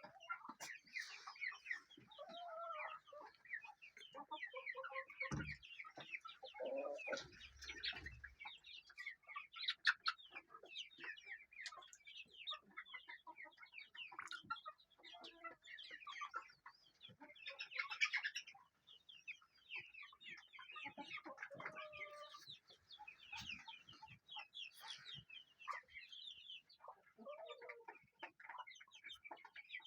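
A flock of chickens clucking, with many short calls overlapping all the way through.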